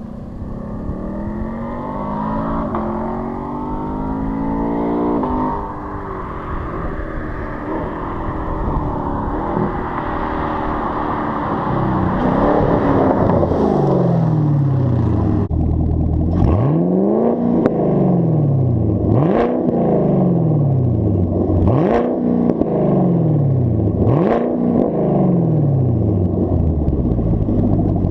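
Chevrolet Camaro SS 6.2-litre V8 running through a muffler-deleted exhaust, its pitch climbing slowly at first. From about halfway on it is blipped in a series of sharp revs, about every two and a half seconds, each falling back toward idle.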